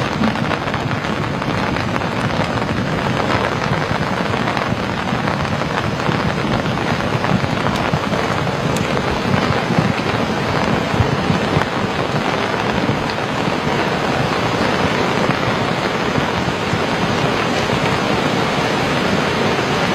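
Fast-moving flash-flood water rushing down a river channel, a steady, even rush of water noise.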